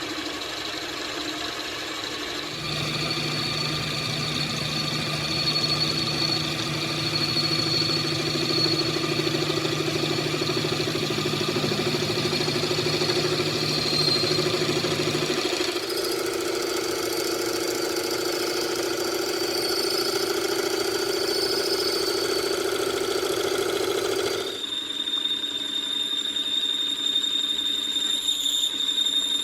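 A machine running steadily with a hum and a high whine, its pitch shifting suddenly about three seconds in, again around sixteen seconds, and again near twenty-five seconds.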